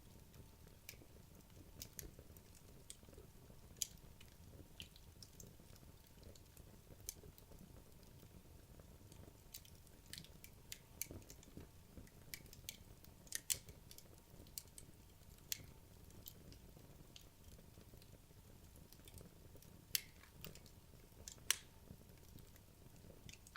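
Wood logs burning in a fireplace, crackling: scattered sharp snaps and pops over a soft low rumble of the fire. A few pops are much louder, about halfway through and twice near the end.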